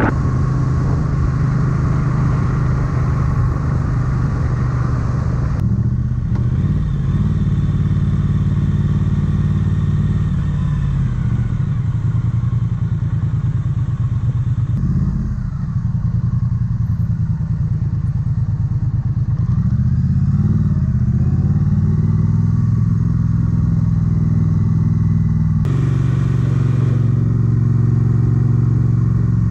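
Triumph Street Twin motorcycle's 900 cc parallel-twin engine running with a steady note. It changes abruptly a few times, and its pitch swings up and down about two-thirds of the way through.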